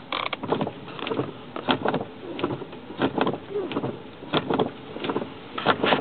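WBBM Newsradio 780 AM broadcast playing, an announcer's voice running on into a radio commercial.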